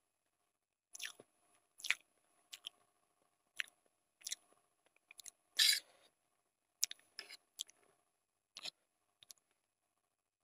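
Close-miked mouth sounds of a person eating Maggi instant noodles: wet chewing and smacking in irregular short bursts, with one longer, louder burst about halfway.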